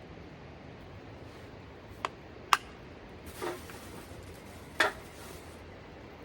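A few sharp clinks and knocks of tableware being handled, two close together about two seconds in, a softer scrape, then one more knock near the end, over a steady low background hiss.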